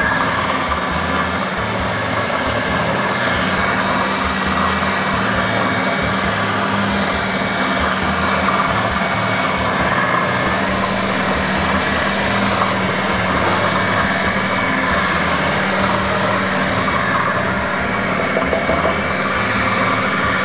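Electric food processor running steadily, its blade churning a thick mixture of ground meat, soaked soy and breadcrumbs: a constant motor hum with a steady low tone.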